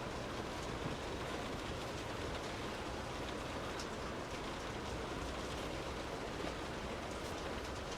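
Steady rain falling on a parked car, heard as an even hiss with scattered drop ticks and a low rumble underneath.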